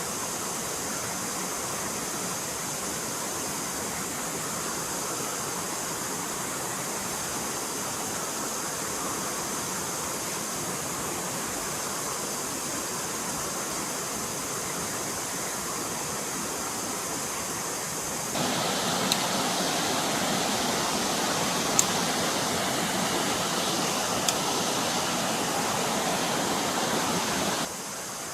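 Stream water rushing steadily. About 18 seconds in it turns abruptly louder and fuller, with a few sharp clicks over it, then drops back just as abruptly near the end.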